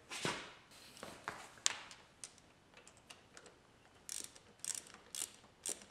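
Socket ratchet clicking in short runs as an 8 mm deep socket tightens the crankcase-pressure hose fitting back into the engine, with a few quicker clicks, about two a second, near the end.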